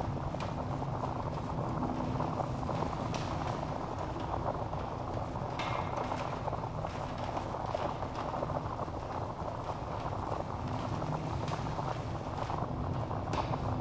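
Wood fire burning in a fireplace: a steady low rush of flame with scattered small crackles and pops from the logs.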